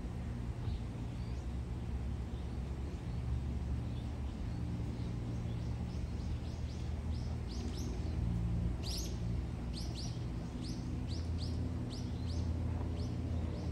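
Small bird chirping, a run of short high chirps about two a second that thickens in the second half, over a steady low background rumble.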